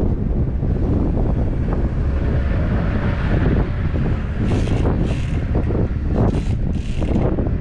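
Wind buffeting the microphone, a steady heavy rumble with a few brief hissy gusts in the second half.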